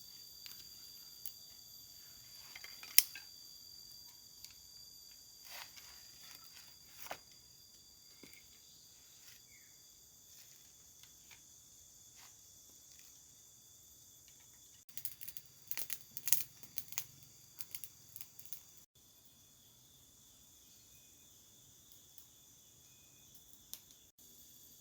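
Forest insects, crickets or cicadas, keep up a steady high-pitched chorus. Over it come scattered sharp clicks and cracks of hand work, with a dense flurry of them roughly midway through.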